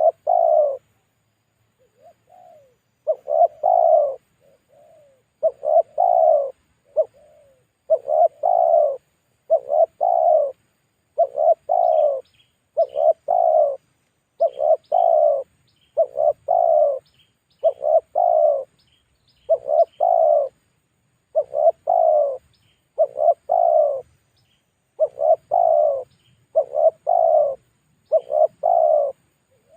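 Spotted dove (tekukur) giving its 'mbekur' cooing call over and over: the lure call used to draw wild doves. The low coos come in quick clusters about every one to two seconds, a few of them softer. Faint high chirps of small birds sound in the background.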